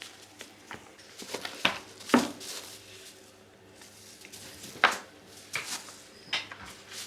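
Scattered knocks, taps and scrapes of cats playing in and around a new cat toilet, the loudest knocks about two seconds in and just before five seconds.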